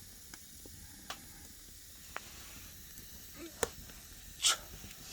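Wood fire burning in a fireplace: a low steady hiss with a handful of sharp, irregular crackles and pops, the loudest two near the end.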